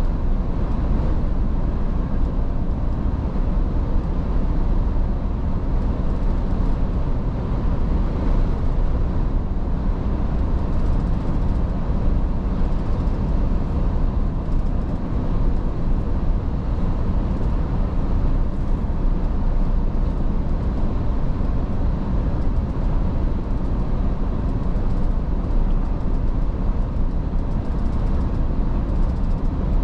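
Iveco S-Way truck driving along at a steady speed: a constant low rumble of engine and road noise.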